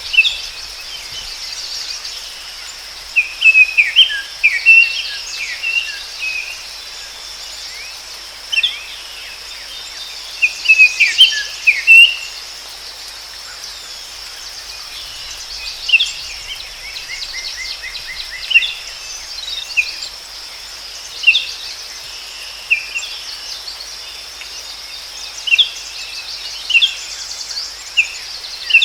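Forest ambience: songbirds chirping and singing in short phrases, busiest a few seconds in and again around ten seconds in, with a fast trill later on. Behind them are a steady high-pitched insect drone and a soft hiss.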